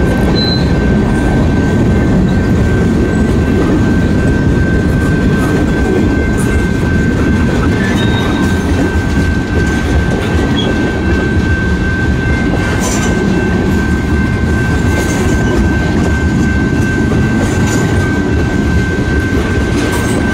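Cars of a long CN mixed freight train (covered hoppers, then tank cars) rolling past close by: a steady, heavy rumble of wheels on rail with occasional clacks. A thin, steady high tone rides over it.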